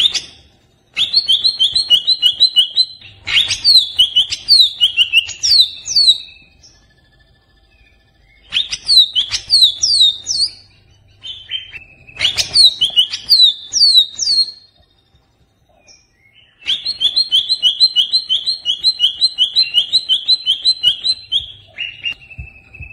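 Greater green leafbird (cucak ijo) calling in bouts of fast repeated chirps and downward-slurred whistled notes, each bout a few seconds long with short pauses between. These are the agitated calls of a stressed bird, the kind played as a lure to provoke other cucak ijo.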